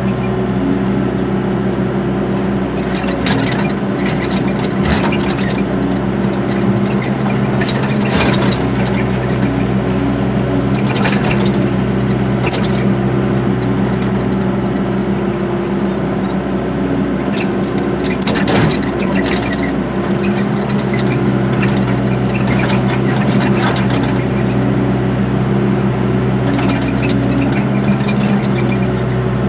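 Hydraulic excavator's diesel engine running steadily under load, with scattered sharp knocks and scrapes as the bucket works the ground to level the land.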